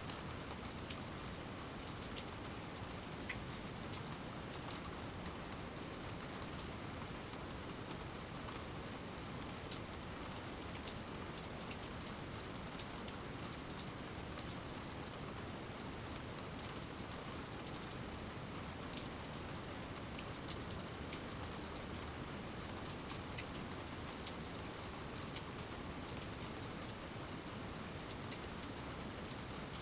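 Steady rain falling, with scattered individual drops ticking on nearby surfaces.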